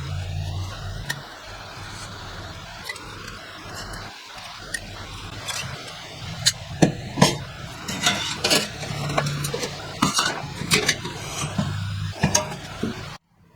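Light metal clinks, taps and scrapes, sparse at first and coming thick and fast from about halfway through, over a low hum.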